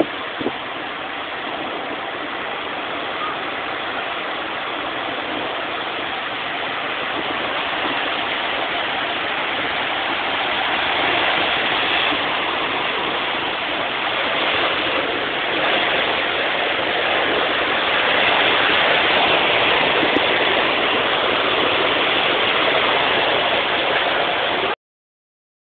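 Heavy hail pelting down in a dense, steady roar of impacts that slowly grows a little louder, then cuts off abruptly near the end.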